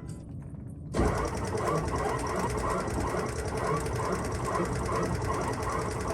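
7.3L Powerstroke V8 turbo-diesel cranking on its starter in a −38 °C cold start without catching. It drops off briefly, then cranks hard again from about a second in as a steady rapid clatter.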